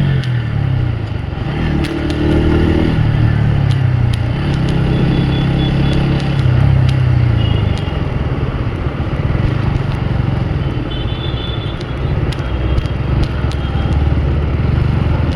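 Motorcycle engine running under the rider, its pitch rising and falling several times with the throttle, over steady wind and road noise.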